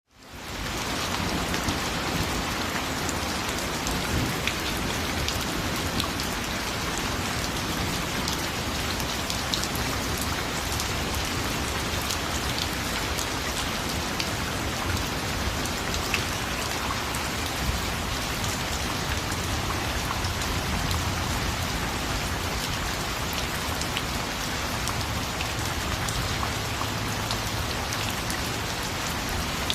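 Steady rain falling on a surface: an even hiss with scattered drop ticks, fading in from silence over the first half second.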